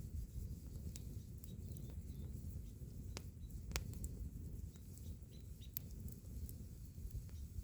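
Wood fire crackling: scattered sharp pops and snaps over a low, steady rumble, with two louder pops a little past the middle.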